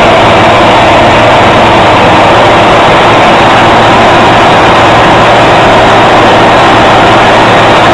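A heavy engine running steadily, very loud and close to the microphone, with a constant low hum and dense noise and no change in pitch.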